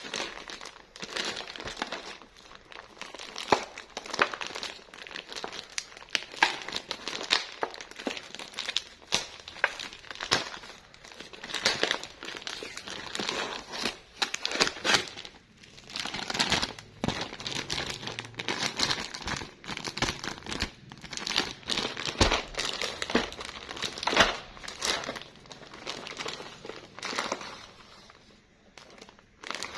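Plastic packaging crinkling and being torn open by hand, with irregular crackles and sharp clicks throughout, as items are unwrapped.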